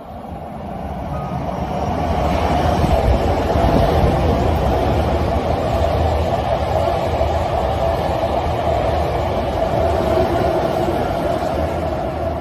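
Hankyu 9000 series electric train running through a station without stopping. Its wheel and running noise swells over the first two seconds or so, holds steady with a persistent whine, then slowly fades near the end.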